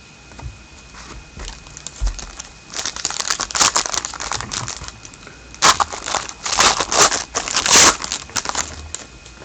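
Trading-card pack wrapper crinkling as it is handled and opened, in two bursts of rustling about three seconds in and again near the end, the second louder.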